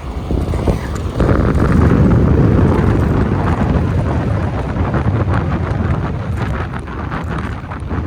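Wind buffeting the microphone of a bicycle rider speeding down a hill. It grows louder about a second in and eases slightly toward the end.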